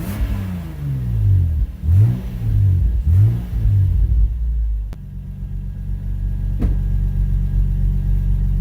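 1994 Toyota Supra's naturally aspirated 2JZ-GE inline-six heard through its stock factory muffler, revved in several quick blips, then settling to a steady idle about five seconds in. The exhaust note is quiet.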